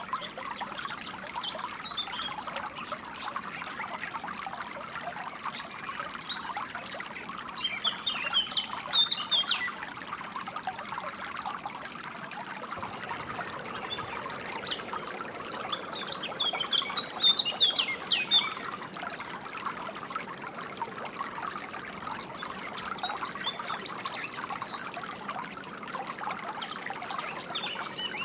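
Shallow water trickling and babbling steadily, with small birds chirping over it in short bursts, the loudest about a third and two thirds of the way through.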